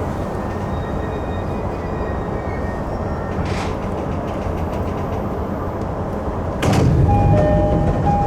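Electric commuter train rumbling along the track. About six and a half seconds in, a louder rush of noise sets in, followed by a two-note electronic chime that repeats.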